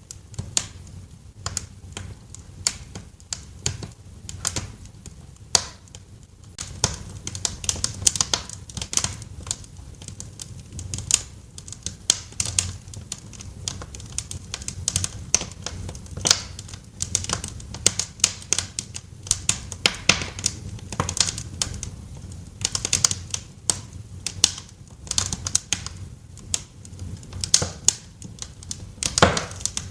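Wood fire crackling in a fireplace: irregular sharp pops and snaps, some in quick clusters, over a low steady rumble of the flames.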